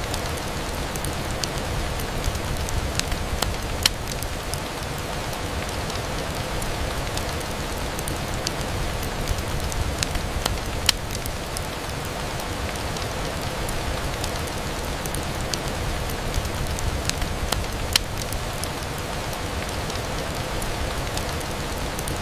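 Steady rain falling on a window, with occasional sharp pops and clicks scattered through it.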